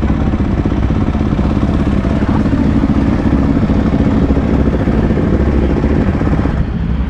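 Motorcycle engine running steadily at low speed, the note easing slightly near the end.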